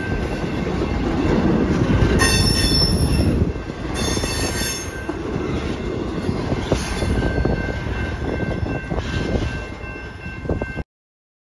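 Intermodal well cars of a freight train rolling past: a heavy rumble of steel wheels on rail with a high, steady wheel squeal over it, loudest about two seconds in and again about four seconds in. The rumble fades as the last cars pull away, then cuts off suddenly near the end.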